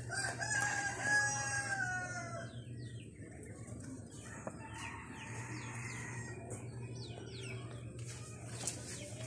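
A rooster crowing once, a held call of about two seconds that drops in pitch at the end, followed by faint high chirps over a steady low hum.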